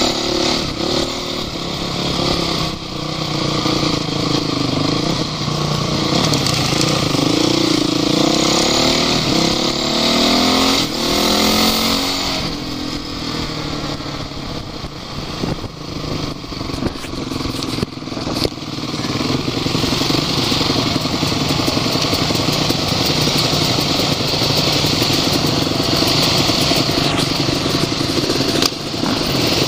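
Off-road vehicle engine running under load, revving up and down several times in the first half, with scattered knocks and rattles.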